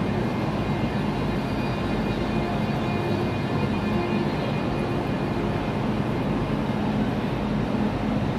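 Steady electric hum of a stationary Eurostar train standing at the platform, a constant drone with a few held tones over the general noise of the station hall.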